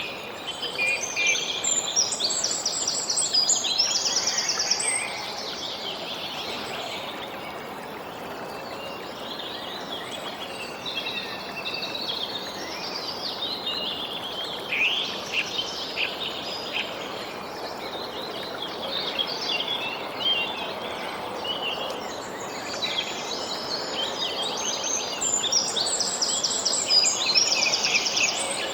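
Several songbirds chirping and singing over a steady background hiss, with bursts of rapid trilled notes near the start and again near the end.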